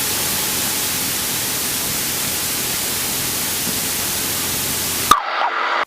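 Steady radio static: an even hiss through the cockpit audio feed that cuts off suddenly about five seconds in.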